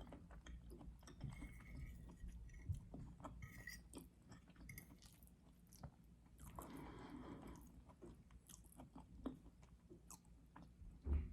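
Soft, close chewing and mouth sounds of a person eating: many small wet clicks, with a short bump near the end.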